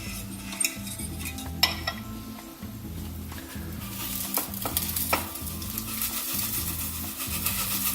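Fork clinking against a container while potassium hydroxide flakes are stirred into water, with a hissing sizzle from about four seconds in: the water boiling locally from the strongly exothermic dissolving of the lye.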